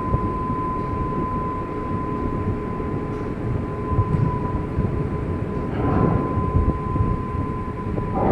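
Cruise ship under way: a steady low rumble, with a constant thin whine over it and a brief swell about six seconds in.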